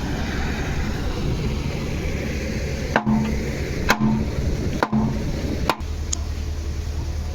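Moving train's steady rumble with four sharp clacks about a second apart, from the wheels crossing rail joints. The clacks stop near the end and the rumble settles into a smoother low hum.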